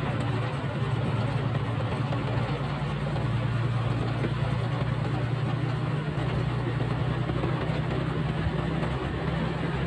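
Motorcycle engine running at a steady, even pitch, with steady noise over it.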